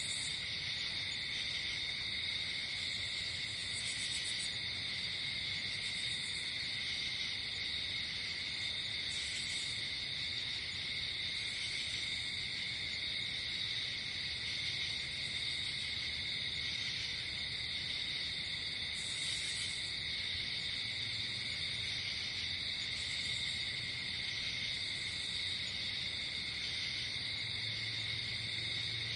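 Night insect chorus of crickets trilling steadily at several high pitches, joined every few seconds by short, higher buzzes that come and go.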